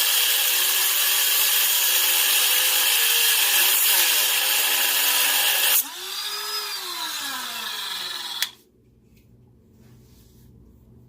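Dremel rotary tool with a cut-off wheel grinding through a seized steel exhaust bolt, its whine wavering under load. About six seconds in the wheel comes off the metal and runs quieter with its whine falling, then stops suddenly about two seconds later.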